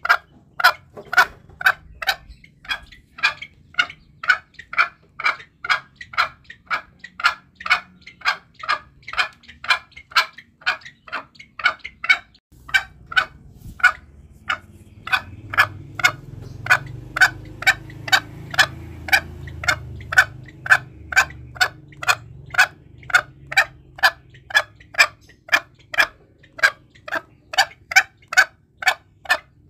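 Green junglefowl calling in short, clipped notes repeated evenly about twice a second, used as a lure call for hunting the bird. Near the middle the calls pause briefly, and a low rumble runs under them for several seconds.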